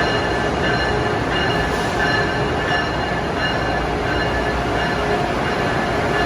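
Amtrak Acela train rolling slowly into the station: a steady rumble of wheels on rail with a high, steady squeal held over it.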